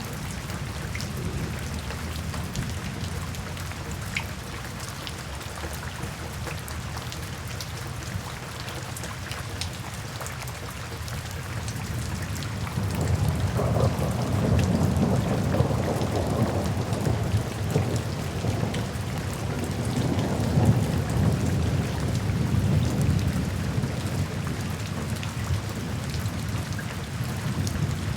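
Steady rainfall with the tick of individual drops on a surface, joined by a low rumble of distant thunder that swells up about halfway through, peaks twice and slowly fades near the end.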